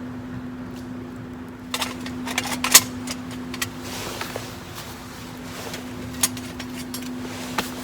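Sharp metallic clinks and knocks of camping gear being handled, clustered about two seconds in with a few single clicks later, over a steady low hum.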